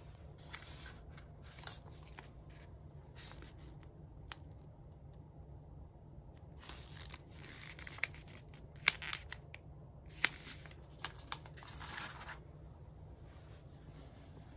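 Short bursts of rustling or crinkling and several sharp clicks from objects being handled, over a steady low hum.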